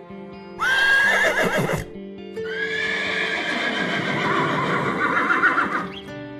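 Horse whinnying twice: a short neigh, then a longer, quavering one. Soft guitar music plays underneath.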